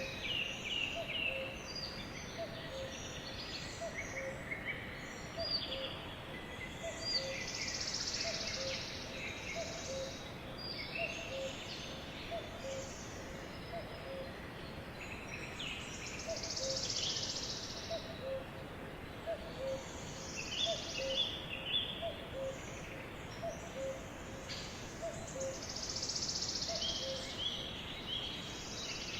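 Sparrows chirping and twittering in many short, overlapping high calls over a steady background hiss, with a soft low pip repeating evenly underneath.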